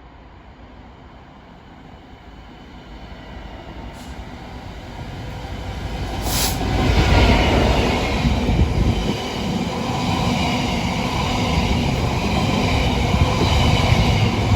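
A train approaching, its rumble growing louder over several seconds, then running past loudly.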